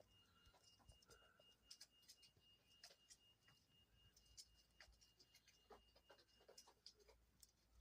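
Near silence with faint, irregular soft clicks of a dove's beak nibbling through her feathers while preening, and a faint steady high whine for most of it.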